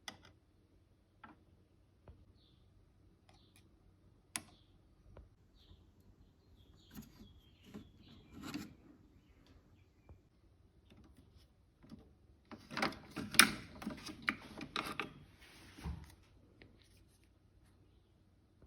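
Scattered clicks and knocks, then a denser stretch of clattering and rattling about two-thirds of the way through.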